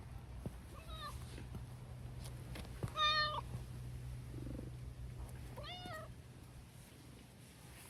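A tabby-and-white cat meowing three times: a short faint meow, then a louder one, then a third, over a steady low hum.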